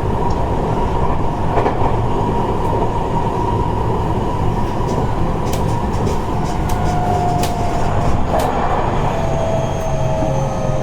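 Seibu 30000 series electric train running, heard from inside the car: a steady rumble of wheels on rail with a few sharp clicks. From about seven seconds in there is a thin whine that slowly falls in pitch.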